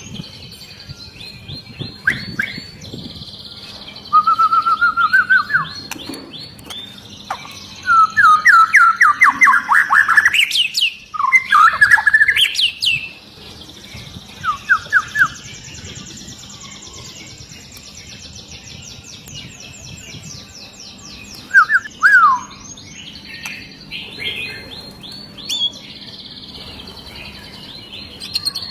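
White-rumped shama singing: loud, varied phrases of rapid repeated whistled notes and sweeping slurs, with fainter high, fast trills in the pauses between phrases.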